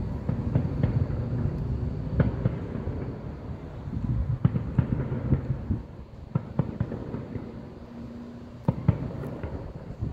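Fireworks going off in a rapid, irregular string of pops and cracks over a low rumble. The two sharpest bangs come close together near the end.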